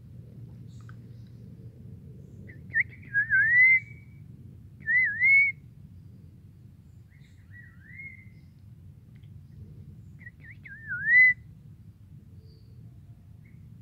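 A forest bird singing short whistled phrases, each a quick dip and rise in pitch, four phrases a few seconds apart; the phrases about three seconds in and near the end are the loudest.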